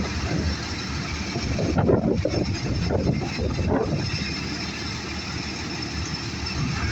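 Vehicle engine running with a steady low rumble, rougher and louder for a couple of seconds near the start.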